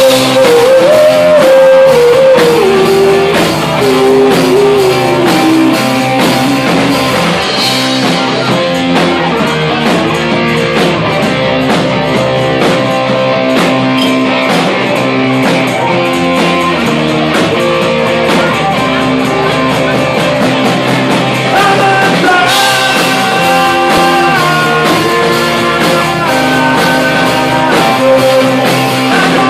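Rock band playing, with electric guitar and drums; a lead line bends up and down in pitch over the first several seconds, and steady held chords come in later on.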